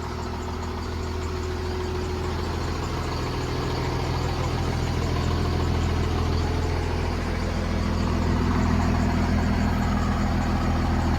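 Cummins diesel engine, fitted with a big injection pump, idling steadily and growing gradually a little louder.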